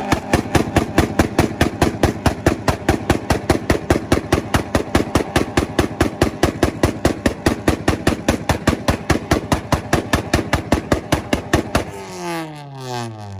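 Tuned car engine held on its two-step launch-control rev limiter, popping and banging rhythmically at about five bangs a second. About twelve seconds in it is released and the revs drop away.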